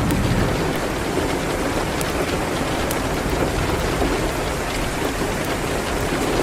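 Steady rain, with a few sharp crackles from a fireplace and a low rumble of distant thunder near the start and again near the end.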